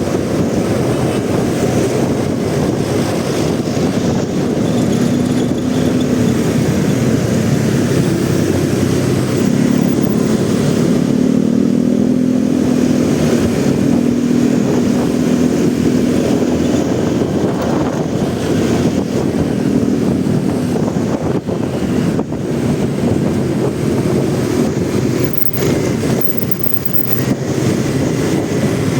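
Motorcycle engine running while riding in city traffic, with a steady engine tone most prominent from about ten to seventeen seconds in.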